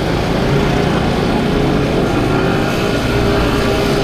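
Small 50cc scooter engine running at a steady cruise, a droning hum under heavy wind rumble on the microphone.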